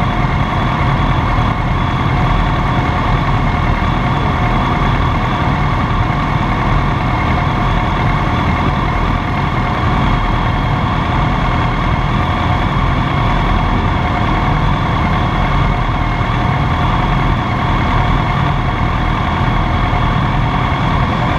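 Kawasaki ZX-10R sportbike's inline-four engine idling steadily while stationary, heard from a camera mounted on the bike, with other motorcycles idling around it.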